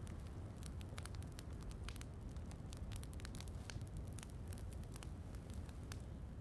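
Wood fire in a fireplace crackling, with many irregular small snaps over a steady low rumble.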